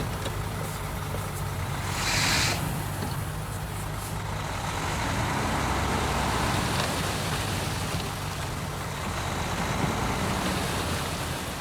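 Heavy diesel earthmoving machinery running steadily with a low engine hum, and a short burst of hiss about two seconds in.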